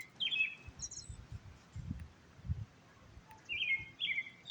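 A songbird singing: short phrases of quick notes stepping downward in pitch, one phrase just after the start and another near the end, with a brief higher chirp about a second in.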